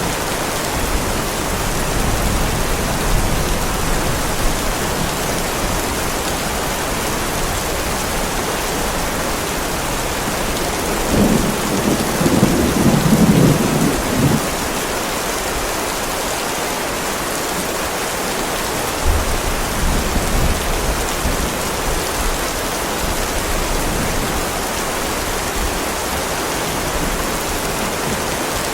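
Heavy rain falling steadily on a driveway, a dense even hiss. About eleven seconds in, a low roll of thunder rumbles for three or four seconds, and a fainter low rumble follows a little later.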